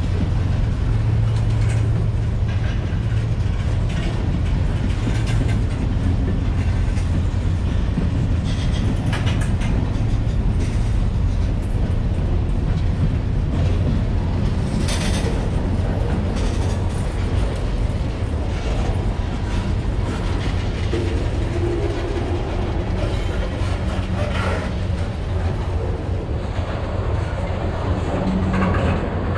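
Freight cars rolling past close by: a steady low rumble of steel wheels on the rails, with clickety-clack over the rail joints and a few sharp clanks.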